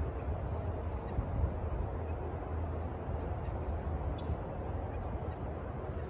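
A small songbird giving a few short, high calls, some sliding downward, about two, four and five seconds in. A steady low rumble runs underneath.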